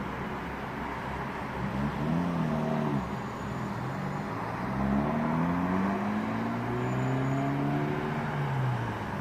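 Road traffic: a car engine revs up and falls away about two seconds in, then another vehicle accelerates past, its engine pitch rising and then slowly falling, over a steady hiss.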